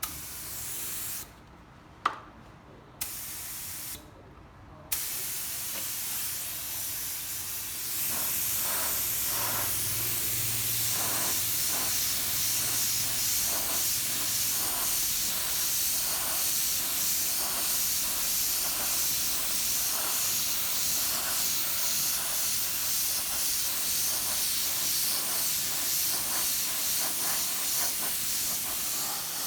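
Paint being sprayed: a few short hissing bursts with clicks at the start, then a continuous spray hiss that grows stronger about eight seconds in.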